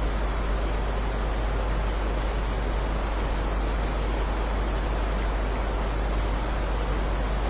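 Steady rain falling: an even, unbroken hiss with a deep low rumble underneath.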